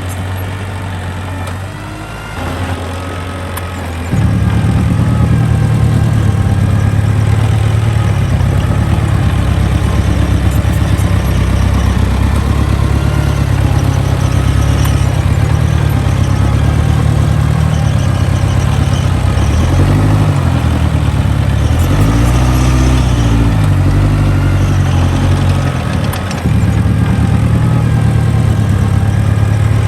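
Mini bulldozer's diesel engine running; about four seconds in it steps up to a louder, harder-working run, and in the later part its pitch rises and falls several times as the revs change.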